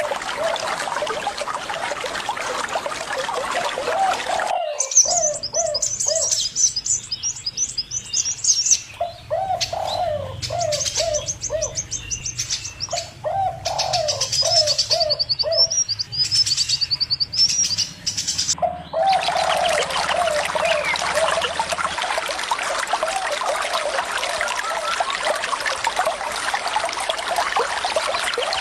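A dove cooing in runs of short repeated notes over the hiss of running water, with small birds chirping high above. The water sound cuts off sharply about five seconds in, leaving the chirps and coos plain, and comes back about nineteen seconds in.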